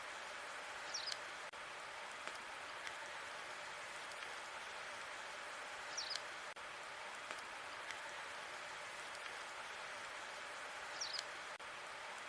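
Logs burning in a fireplace: a steady hiss of fire with scattered small crackles and a brighter crackling pop about every five seconds, the same short pattern repeating as a loop.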